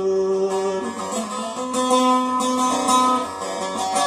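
Instrumental break in a Kurdish song: a plucked string instrument plays a melody of quick notes, after a held note that fades about a second in.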